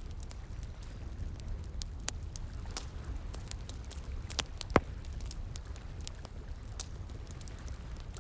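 Wood fire crackling, with irregular sharp pops and snaps, and one loud pop a little past halfway, over a steady low rumble.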